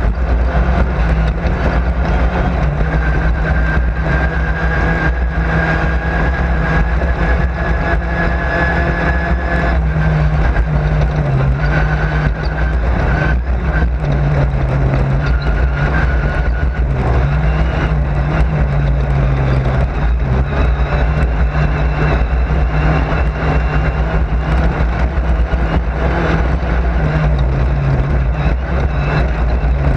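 Race car engine heard from inside the car, running hard under load, its pitch stepping up and down every second or two as the revs change, over a heavy low rumble.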